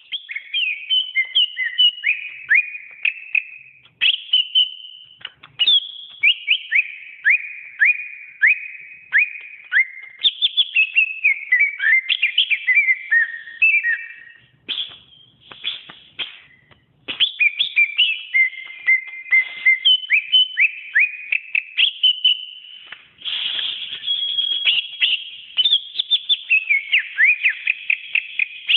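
Cucak ijo (green leafbird) singing: a long, varied run of rapid whistled phrases made of many quick downward-sweeping notes, with a few short breaks.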